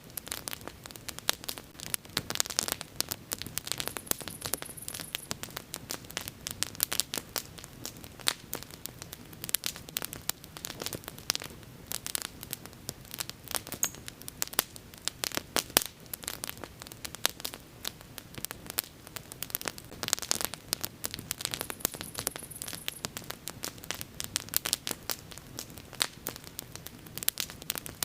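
Wood burning in an open bonfire, with dense, irregular sharp crackles and pops over a steady low hiss of flames.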